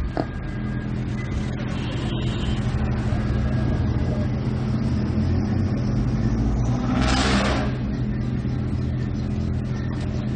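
Kinetic subwoofer driven hard by a 500 W car amplifier, playing deep, steady bass tones. The amplifier runs off a microwave-oven-transformer 12 V supply under test. A brief hiss cuts in about seven seconds in.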